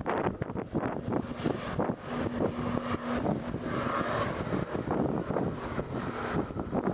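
Gusting wind buffeting the microphone, with the faint steady hum of an airliner's engines underneath.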